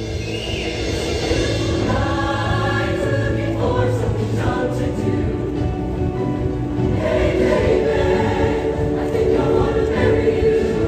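Show choir singing long held chords with instrumental accompaniment and a steady bass line.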